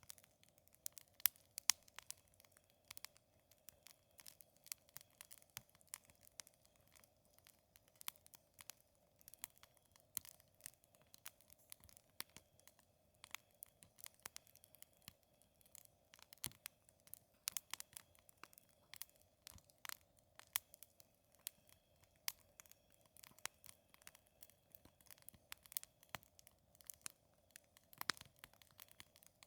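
Wood campfire crackling: irregular sharp pops and snaps, several a second, over a faint steady hum.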